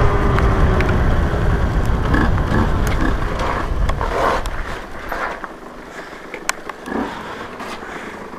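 Motorcycle riding noise, engine rumble and wind on the helmet microphone, loud for about five seconds and then dying down as the bike slows to a stop. A few sharp ticks sound during the quieter part.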